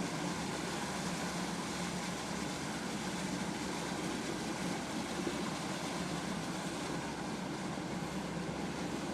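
A truck driving at a steady pace: an even rush of engine and tyre noise with a low hum, unchanging throughout.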